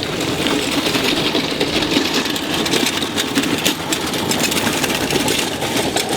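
An engine running steadily, with a fast, even clatter.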